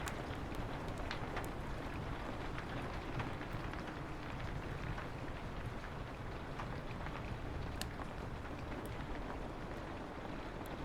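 Steady rain on a window with a wood fire crackling: scattered sharp pops at irregular intervals over an even, deep rush of noise.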